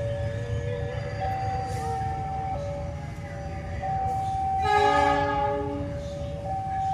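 Locomotive horn sounding one chord-like blast about a second long, near the middle, over the rumble of a train. A level-crossing alarm alternates between two steady tones throughout.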